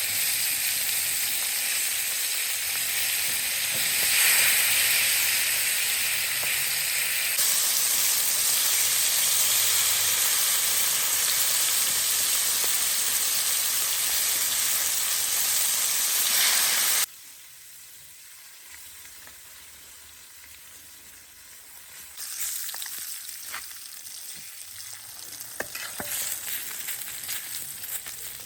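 Loud, steady hiss of spraying or rushing water that cuts off suddenly about 17 seconds in. A quieter, more uneven splashing hiss picks up again about 22 seconds in.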